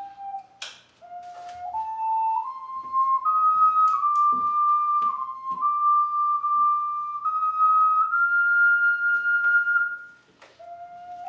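Ocarina playing a slow solo melody of long held notes that climb step by step, with a brief pause about a second in and another near the end.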